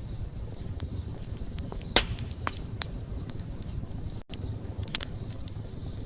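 Wood fire burning with a steady low rumble and scattered sharp crackling pops, the loudest about two seconds in. A split-second dropout in the sound comes just after four seconds.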